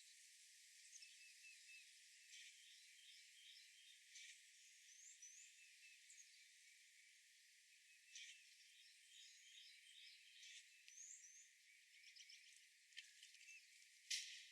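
Faint birdsong: many short chirps and quick whistled phrases from small birds, with one sharp click near the end.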